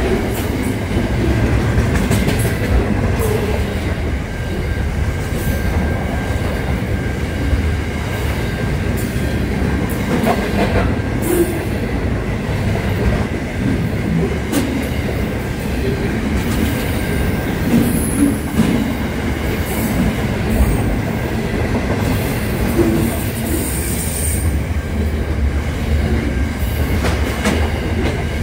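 Container wagons of a long freight train rolling steadily past at speed: a constant low rumble of wheels on rail, sharp clicks now and then as wheels cross rail joints, and a thin steady squeal from the wheels, with brief higher squeals about two-thirds of the way through.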